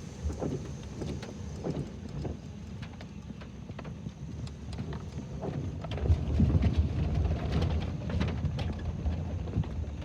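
Vehicle driving on a rough, washed-out dirt road, heard from inside the cabin: a low rumble with scattered knocks and rattles, louder from about six seconds in.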